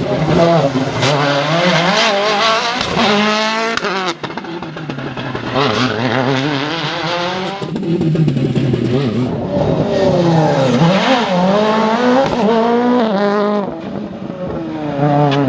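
Rally car engine revving hard through the gears: the pitch climbs, drops at each shift and climbs again, loud and continuous, with a dip and rise in pitch as a car passes.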